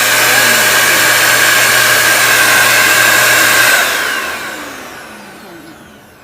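Deerma DX115C 600 W vacuum cleaner running at full speed with a loud, steady whine. It is switched off a little over halfway through, and the motor spins down with a falling whine that fades out.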